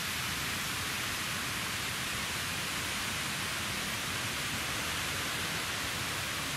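Steady, even hiss of outdoor background noise, unchanging throughout.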